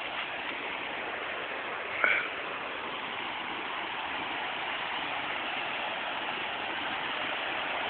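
River water rushing steadily over rapids, the river running high, with a brief short sound about two seconds in.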